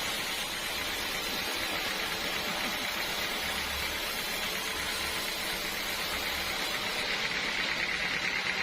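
Sawmill saw running steadily with a high whine, which grows stronger and pulses quickly near the end.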